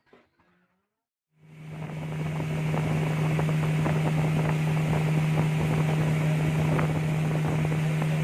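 Motorboat engine running at a steady, constant pitch. It fades in about a second and a half in, after a moment of silence.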